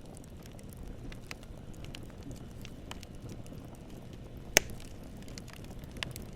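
Campfire burning: a low steady rush with scattered crackles, one loud sharp pop about four and a half seconds in and a smaller pop about a second and a half later.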